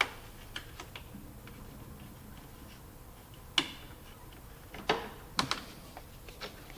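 Sharp plastic clicks and snaps as small plastic push rivets are handled and pressed into a liftgate trim panel: one loud click about halfway through, then a quick cluster of clicks a second or two later, with faint ticks between.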